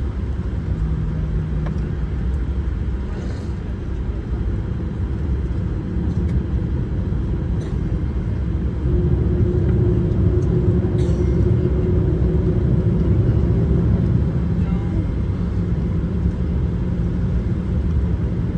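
Cabin noise of a Boeing 737-800 taxiing: the steady low rumble of its CFM56 engines and air conditioning. The rumble grows louder about nine seconds in, with a steady hum for several seconds.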